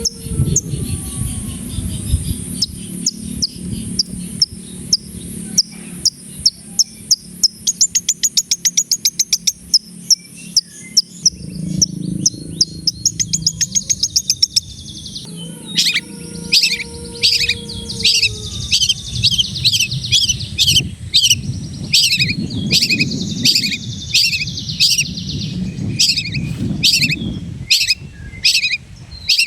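Long-tailed shrike (cendet) singing a varied song: sharp repeated chirps, then fast runs of quick notes, then from about halfway a steady series of harsh, scratchy notes about two a second.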